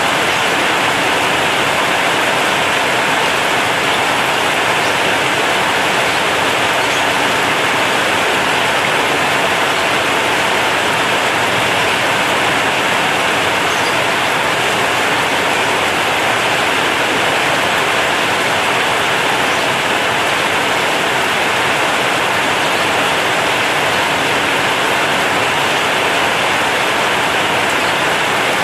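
Heavy rain drumming steadily on a corrugated zinc roof, an even, unbroken downpour.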